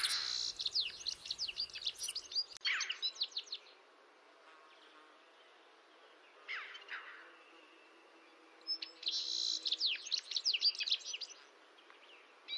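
A songbird singing two phrases, each a rapid series of high, falling notes lasting about three seconds, the first at the start and the second near the end, with a few single calls between them.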